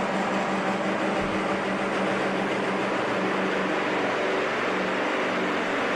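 Heavily modified pulling truck's diesel engine running flat out under load, a loud, steady drone that holds one pitch.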